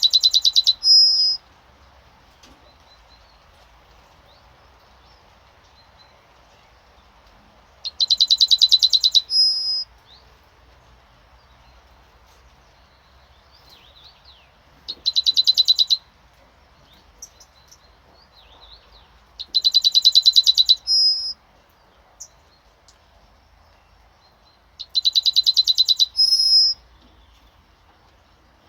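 Yellowhammer singing five songs, spaced about five to seven seconds apart. Each song is a fast run of repeated, buzzy notes followed by a short, higher final note; the third song is shorter.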